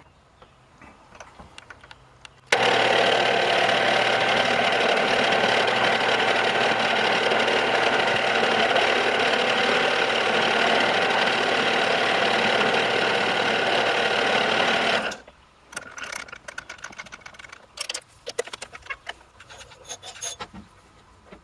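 Small metal lathe motor running steadily for about twelve seconds, starting and stopping abruptly, while a bolt is turned down into a replacement stud. Scattered metallic clicks and knocks of tools and parts being handled follow.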